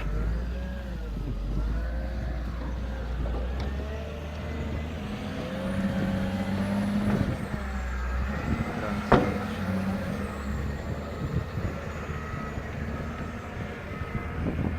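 Opel Campo's diesel engine running cold at −25 °C, shortly after a cold start, with a steady low rumble and a faint wavering whine over it. A single sharp click sounds about nine seconds in.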